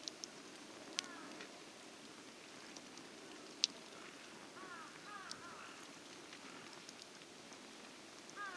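Wood fire crackling faintly in a fire stand, with a few sharp pops, the loudest about three and a half seconds in.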